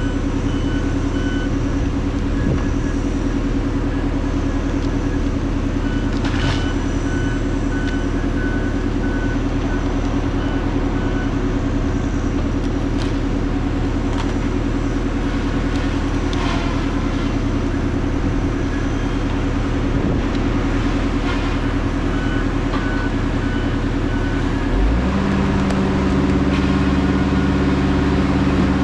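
Diesel engine of a heavy logging machine running steadily, its backup alarm beeping in several stretches, with occasional clanks. About 25 seconds in the engine revs up to a higher pitch.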